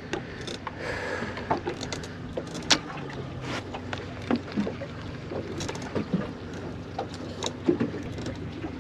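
Ambient sound aboard a small open fishing boat at sea: a steady low hum with irregular light knocks and clicks scattered throughout, from water slapping the hull and gear moving on deck.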